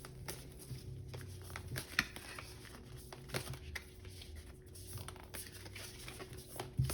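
Scattered light clicks and rustles of tarot cards being handled, over a steady low hum.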